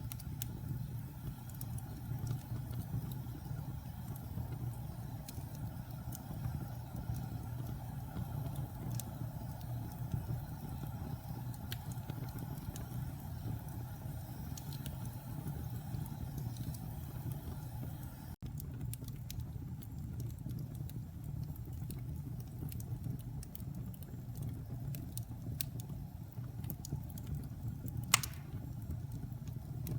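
Wood fire burning in a fireplace: a steady low rumble of flames with scattered small crackles, and one sharp loud pop near the end.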